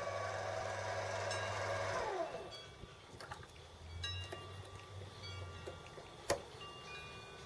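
A metal lathe running, then switched off about two seconds in, its motor winding down with a falling whine. After that come light metallic clinks and ringing tones as tools and the part are handled, and one sharp click near the end.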